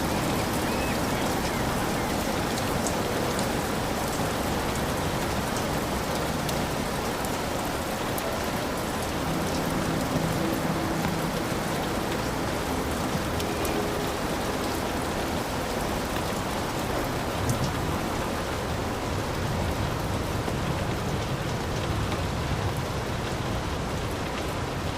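Heavy rain falling steadily on a hut, a dense even hiss with fine drop patter throughout.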